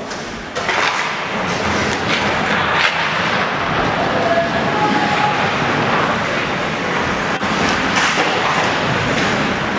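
Ice hockey game sound in a rink: a steady wash of skate and arena noise with scattered sharp clacks of sticks and puck.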